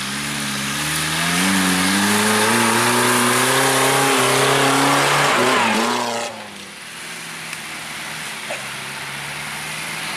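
Off-road 4x4 vehicle's engine revving hard, climbing in pitch for several seconds, then the throttle is let off suddenly about six seconds in and it falls back to a quieter, steady run.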